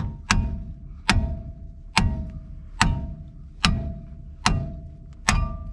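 Hammer striking a seized brake caliper on a 1982 Chevy Scottsdale pickup, a steady run of about seven sharp metal blows a little under a second apart, with the metal ringing on between strikes.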